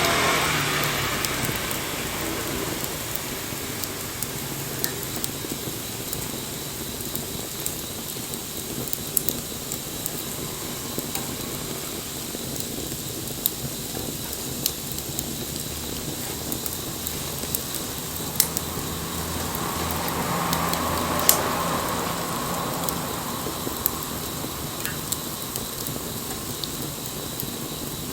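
Wood fire burning with a steady hiss and scattered sharp crackles and pops. A distant engine hum swells and fades about two-thirds of the way through.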